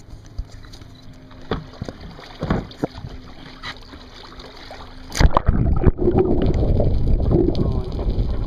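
A few faint knocks on the camera, then about five seconds in a sudden splash and loud, steady rushing and gurgling water over the microphone as the camera goes underwater.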